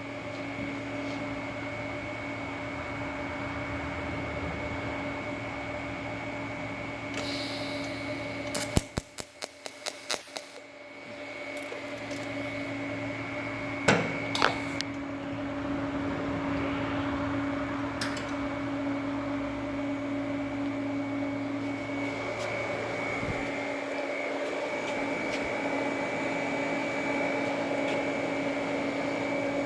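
Everlast EXT 255 welder humming with steady tones while it struggles to start an arc: a quick run of sharp clicks about nine seconds in, two more sharp snaps near fourteen seconds, then a slightly louder steady hiss from about sixteen seconds on. The hard starting is the welder having difficulty forming an arc.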